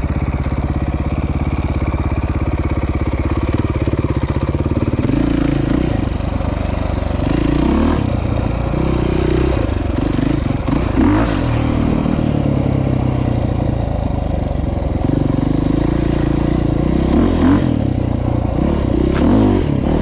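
Off-road motorcycle engine running steadily for about five seconds, then revved up and down repeatedly.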